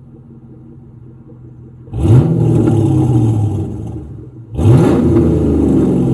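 Chevrolet Camaro SS's 6.2-litre LS3 V8 with a custom exhaust, idling, then revved twice: about two seconds in and again near the end, the revs rise quickly and fall back each time.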